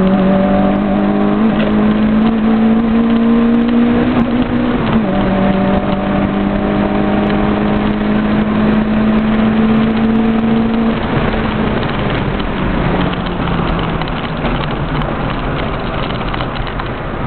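Rally car's engine heard from inside the cabin, pulling hard with its pitch climbing under throttle. It drops suddenly at a gear change about five seconds in, climbs again, then eases off about eleven seconds in, with road and tyre noise underneath throughout.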